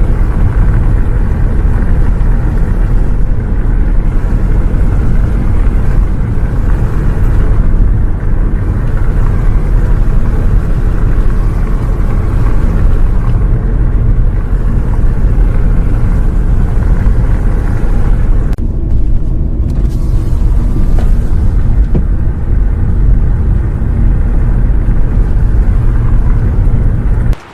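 Loud, steady low rumble of a moving bus's engine and road noise. It starts and stops abruptly.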